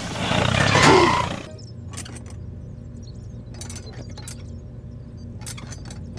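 Engine-like running noise of a model tractor that cuts off about a second and a half in. It is followed by a low steady hum and scattered light clicks and knocks as hands handle the toy's plastic spiked wheels.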